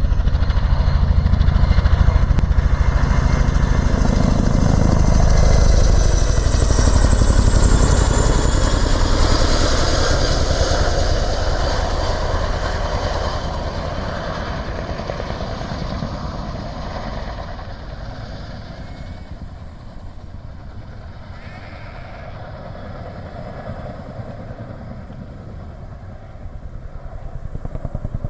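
CH-47D Chinook tandem-rotor helicopter passing: a fast, steady rotor beat with a high turbine whine that falls in pitch, fading over the second half and growing louder again near the end.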